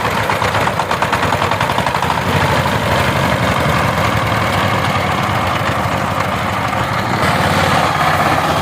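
Power tiller's diesel engine running steadily with a fast, even chugging.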